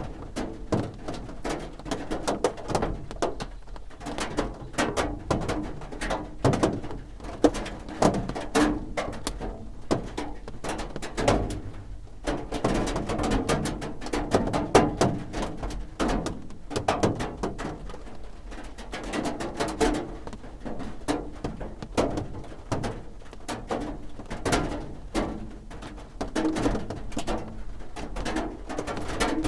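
Raindrops drumming on a roof: dense, irregular ticks and taps that keep going steadily throughout.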